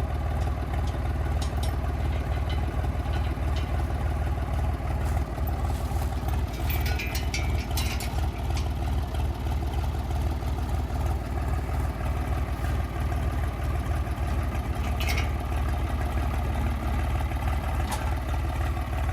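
An engine idling steadily, with a few light clicks and rattles about seven seconds in and again near fifteen seconds.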